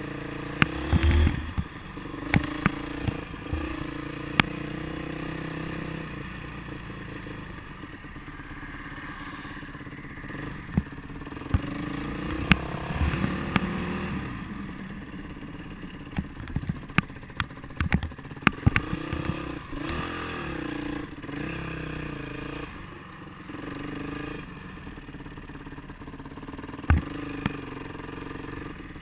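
Motorcycle engine running under way, its pitch rising and falling again and again, with scattered sharp knocks and clatter.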